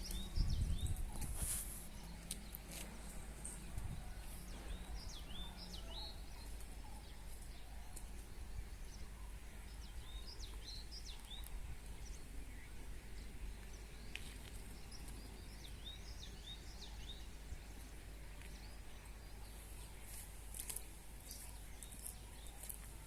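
Small birds chirping in short, high, quickly bending calls that come in spells, over a steady low outdoor background rumble.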